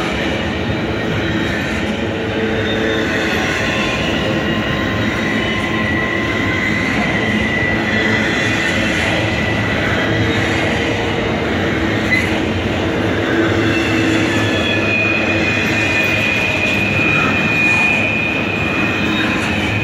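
Double-stack intermodal freight cars rolling past at close range: a steady rumble of steel wheels on rail. A thin, high squeal from the wheels is held for several seconds, once in the middle and again near the end.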